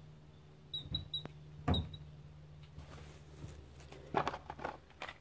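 Small parts being handled: a few light clicks and a knock in the first two seconds, then plastic packaging crinkling through the second half, over a steady low hum.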